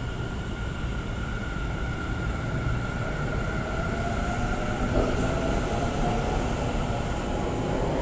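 Electric train running with a steady rumble; from about halfway a faint motor whine rises slowly in pitch, and there is one short click about five seconds in.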